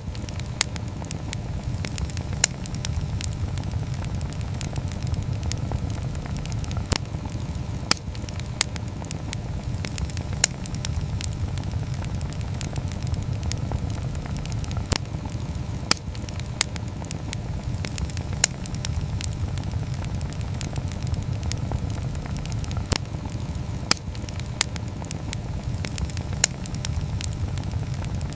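Wood campfire burning: a steady low rumble of the flames with sharp, irregular crackles and pops, roughly one a second.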